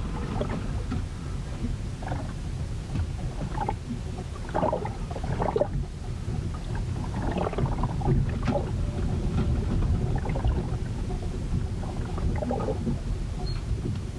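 Storm recorded aboard a ship: a steady low rumble of wind and water, with short irregular sounds of water and the hull breaking over it.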